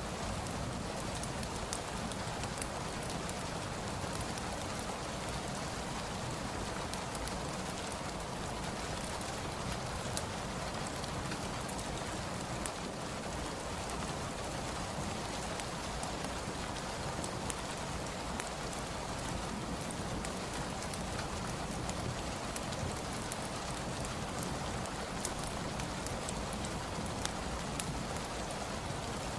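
Steady rain falling, mixed with the crackle of a fireplace: small scattered pops and ticks over an even rush of rain.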